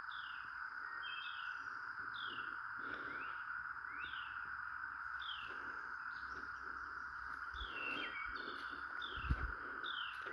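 Cicada chorus, a steady dense drone, with a bird repeating short falling notes about once a second over it. A few low thumps about nine seconds in.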